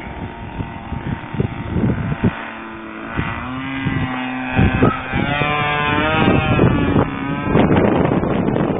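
A propeller-driven trainer airplane flying a pass, its engine note swelling and bending in pitch through the middle as it goes by. Strong wind buffets the microphone throughout with gusty rumbles.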